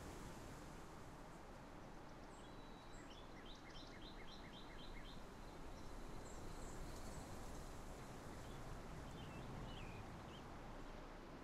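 Birds chirping over steady background noise: a quick run of about eight evenly spaced chirps a few seconds in, and a few scattered higher chirps.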